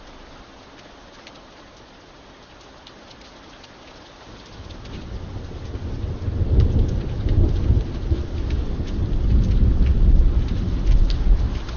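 Steady rain with scattered sharp drop ticks; about four seconds in, a long low rumble of thunder builds and rolls on loudly through the rest.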